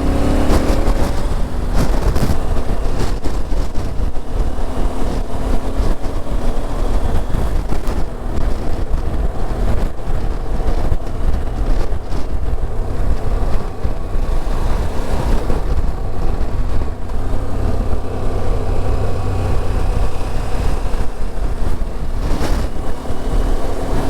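Motorcycle riding at speed in strong wind: steady wind buffeting on a helmet-mounted microphone over the engine's running note.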